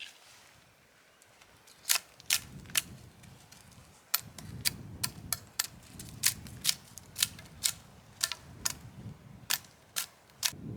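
A run of sharp, short clicks or knocks, irregularly spaced at roughly two a second, starting about two seconds in, over a low rumbling background.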